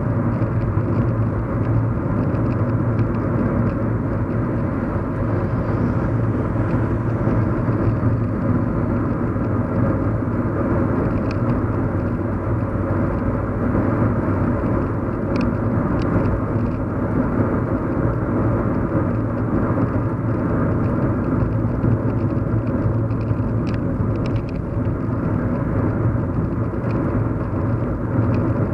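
Steady hum of a car driving, heard from inside the cabin: a constant low engine and road rumble with tyre noise. A few faint clicks come and go midway and near the end.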